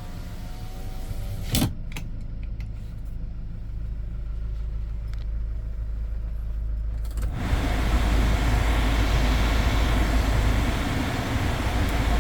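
A Hyundai Porter II truck idling with a steady low hum. A power-window motor finishes its whine in the first second and a half and stops with a sharp clunk. About seven seconds in, the cab's ventilation fan comes on with a sudden, steady rush of air.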